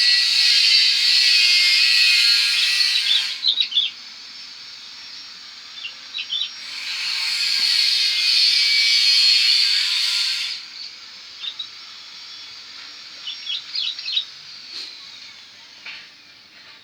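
A high, hissing buzz in two long bouts of three to four seconds each, each cutting off abruptly, with short bird chirps in the gaps between them.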